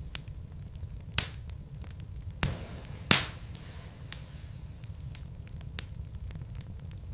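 Wood fire burning in a fireplace: a steady low rumble of the flames with scattered crackles, and three louder pops from the logs, the loudest about three seconds in, trailing off in a brief hiss.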